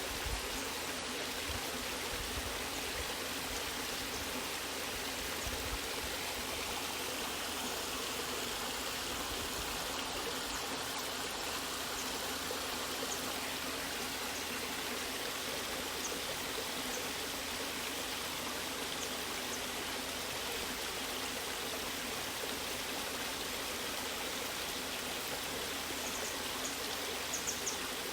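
Water falling and rushing over rocks in a steady, unbroken stream, with a few faint higher trickles and splashes near the end.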